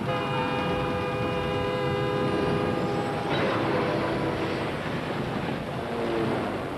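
Freight train's air horn sounding one long, steady blast that breaks off about three seconds in, then the noisy rush of the moving train.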